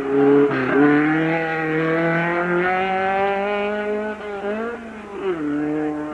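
Hill-climb race car engine running hard under load. Its pitch climbs steadily for a few seconds, dips briefly about four seconds in, then drops at a gear change a little past five seconds and holds steady.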